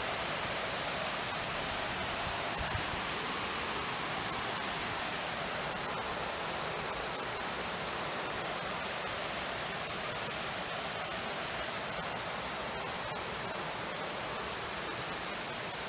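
Steady rushing of flowing water, an even hiss with no rhythm or breaks.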